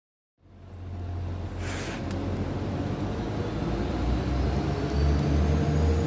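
A train running at a station with a steady low rumble; a short hiss of air about a second and a half in, and a faint rising whine near the end.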